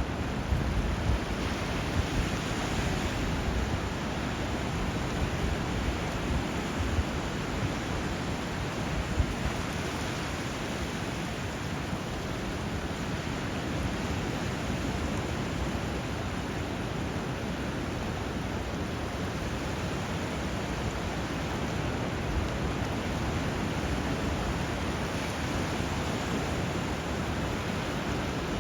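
Steady rushing water where a river flows into the sea: an even wash of river current and surf, heaviest in the low end, with a few brief louder spikes in the first ten seconds.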